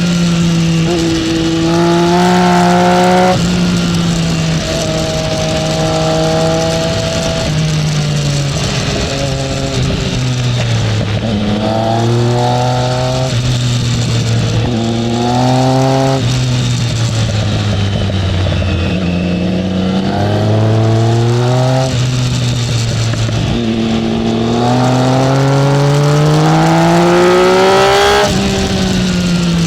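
Triumph Speed Triple's three-cylinder engine heard from on board, accelerating hard through the gears: the pitch climbs, drops sharply at each upshift, and climbs again, several times over. In between it eases off with a slowly falling pitch before pulling again. Steady wind rush underneath.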